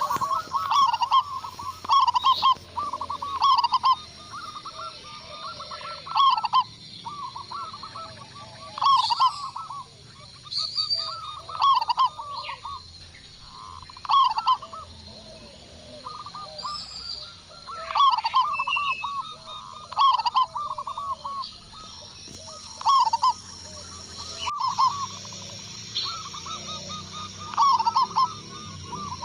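Zebra doves (perkutut) cooing: rapid runs of short, staccato notes, repeated every second or two, with louder and fainter phrases overlapping.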